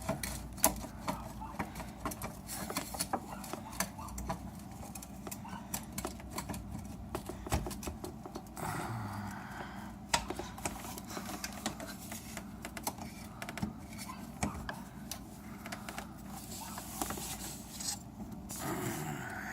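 Irregular small clicks and light knocks of hands working the A/C drier and its hose fittings loose in a Jeep engine bay, as the soft line is pulled out of its fitting.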